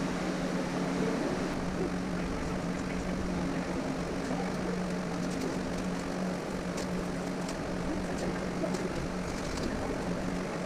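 A steady mechanical drone with a low hum, with a few faint light clicks in the second half.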